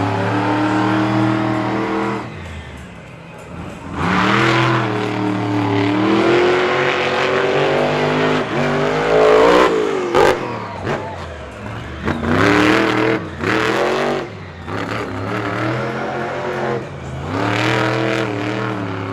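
Monster truck engine revving hard in repeated surges, its pitch climbing and dropping several times, with a sharp bang about ten seconds in.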